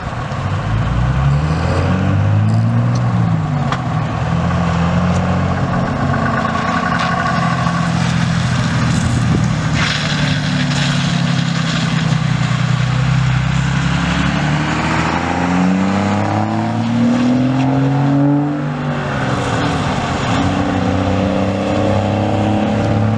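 Vehicle engines running and accelerating in traffic, several engine notes rising and falling one after another as vehicles pull away and pass, with a long rising engine note a little past halfway.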